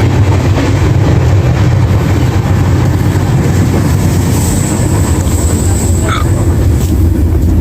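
Passenger train running at speed, the steady rumble of the coach on the rails heard from inside the carriage, with a faint high whine for a second or so in the middle.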